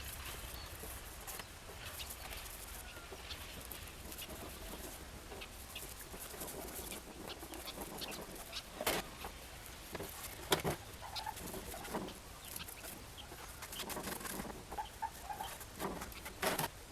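Birds calling, with scattered clicks and taps.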